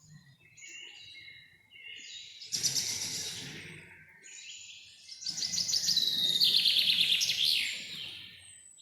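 Songbirds singing: a few soft high calls, then a loud rapid trilled phrase about two and a half seconds in, and a longer, louder trilled song of about three seconds from five seconds in that ends in falling notes.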